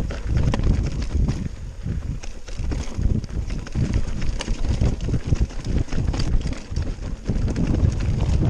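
Wind buffeting the microphone of a mountain bike on a fast descent over rough ground, with frequent short rattles and knocks from the bike.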